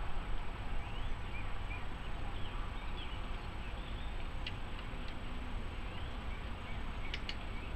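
Faint, short bird chirps over a steady low outdoor rumble, with a few sharp clicks, two of them close together near the end.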